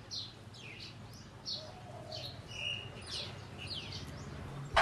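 Small birds chirping in the background, short downward-sweeping chirps two or three a second, over a low steady hum. A brief louder knock comes right at the end.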